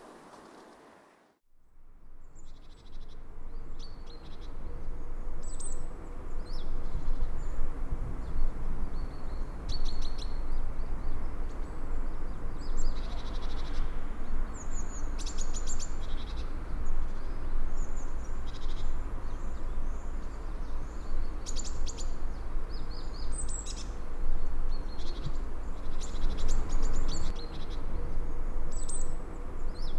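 Wild birds chirping and singing in many short calls over a steady low background noise. The birdsong starts about two seconds in, after a brief near-silent gap.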